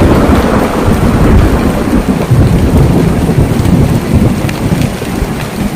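Loud thunder rumbling over steady rain falling on a tin roof, the rumble easing off toward the end.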